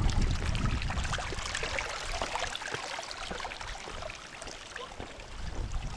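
Seawater washing and trickling among shoreline rocks, a fizzing, crackling wash that slowly fades.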